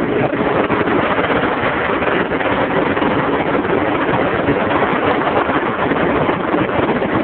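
Loud, steady rushing of highway traffic and wind, heard from a car moving at speed, with no single engine standing out.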